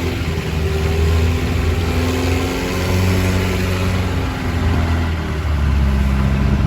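Longtail boat engine running steadily under way, its pitch shifting up and down slightly every few seconds, over a wash of wind and water noise.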